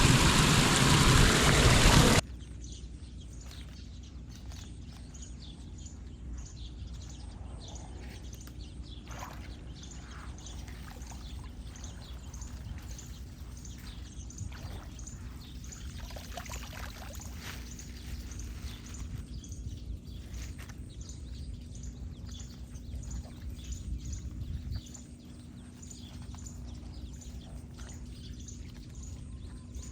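Floodwater pouring down a street storm drain, loud at first, then cutting suddenly to a quieter flow about two seconds in. A faint, regular string of high chirps runs over it.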